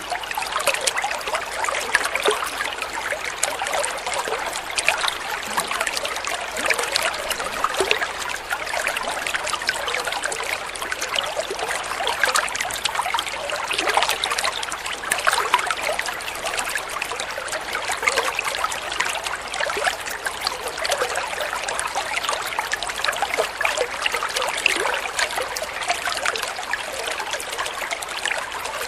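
Flowing water trickling steadily, a dense patter of small splashes that is bright and light, with little low rumble.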